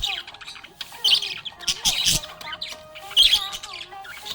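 Budgerigars chirping and warbling in quick, repeated bursts, with harsher squawks mixed in.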